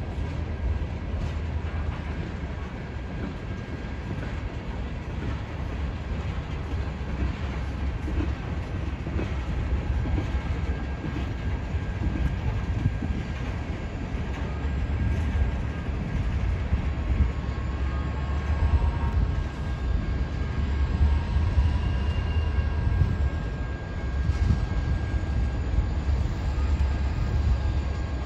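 A train's cars rolling past, with a steady low rumble throughout.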